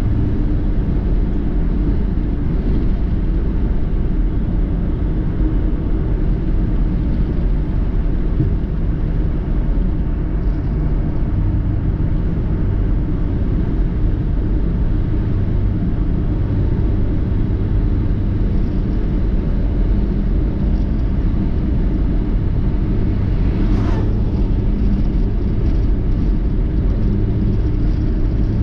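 Steady rumble of a car driving on the road, engine hum and road noise with no break.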